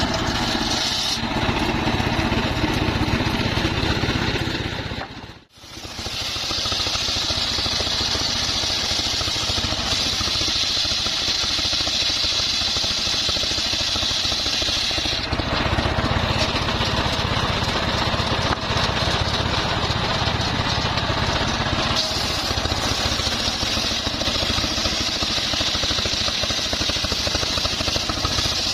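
Engine-driven homemade circular sawmill running, with a high saw whine that swells for long stretches and eases off between them. The sound cuts out briefly about five seconds in.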